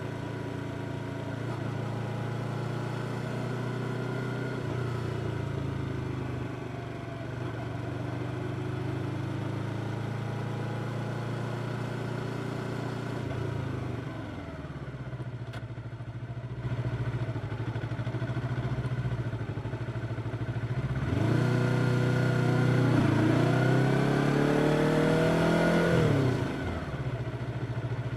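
Yamaha R25 parallel-twin motorcycle engine running under way, its pitch stepping up and down with throttle and gear changes. Near the end it accelerates hard, the pitch rising steeply through two gears and getting louder, then drops back as the throttle closes.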